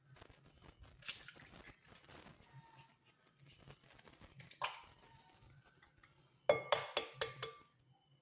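Kitchen utensils clinking against a mixing bowl while brownie batter ingredients are combined: scattered knocks, then a quick run of about six ringing taps near the end.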